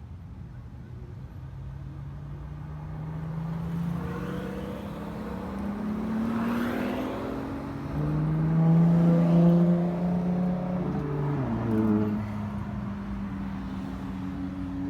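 Car engine accelerating, its pitch rising steadily for several seconds and growing louder. Its pitch drops sharply about two-thirds of the way through, as on an upshift, then holds steady.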